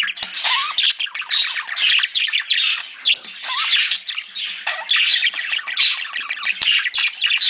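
A flock of budgerigars chattering and squawking together, a dense, continuous mix of many short chirps and warbles.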